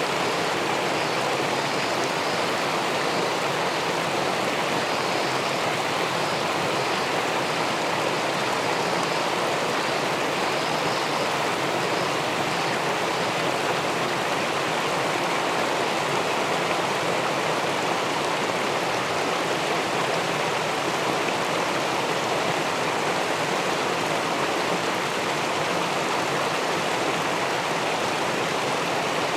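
Steady rushing of river water falling over a weir and churning into the pool below it, an even noise with no let-up.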